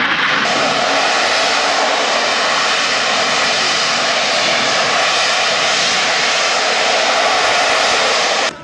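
Harrier GR7's Rolls-Royce Pegasus vectored-thrust jet engine running at high power while the jet hovers, loud and steady, cutting off abruptly near the end.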